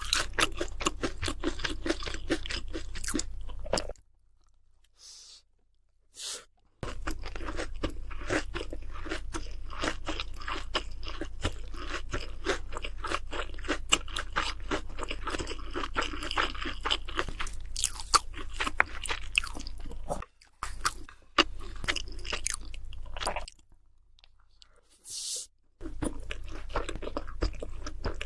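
Crunching and chewing of crispy fried food: a dense run of crunches that stops twice for a couple of seconds, about four seconds in and again near the end.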